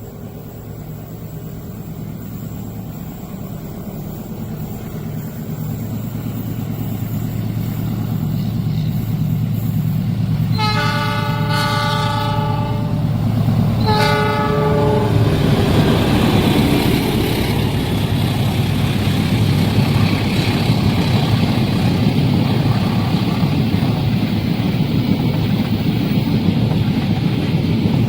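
A diesel-hauled train approaches, its locomotive's engine hum growing steadily louder. The locomotive sounds its horn twice, a blast of about two and a half seconds and then a shorter one. The train then passes close by with loud wheel and rail noise.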